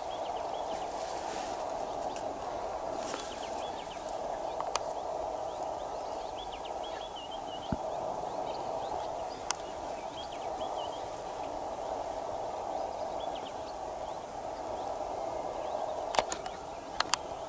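Outdoor bush ambience: a steady hiss, small birds chirping in short bursts now and then, and a few sharp clicks, the loudest near the end.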